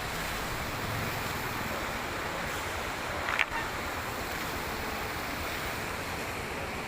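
Steady rush of a fast mountain river, with one short sharp click about three and a half seconds in.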